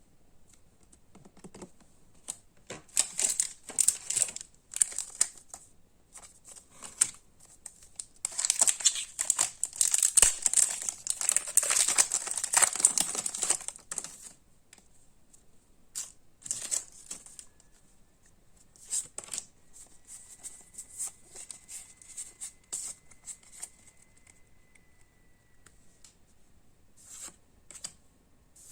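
Pokémon card pack wrapping being torn open and crinkled in irregular bursts, the heaviest and loudest stretch lasting about six seconds, followed by scattered light rustles and taps as the cards are handled.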